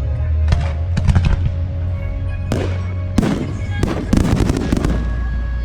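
Aerial fireworks bursting in a series of sharp bangs, with a rapid run of crackles about four seconds in, over background music.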